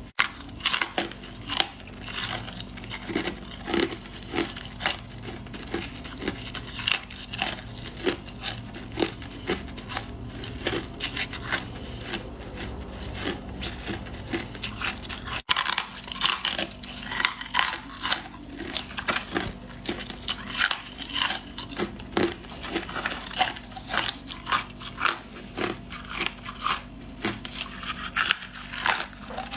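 Freezer frost being crunched in close, repeated bites and chews: many sharp, crisp crunches a second, with a steady low hum under them.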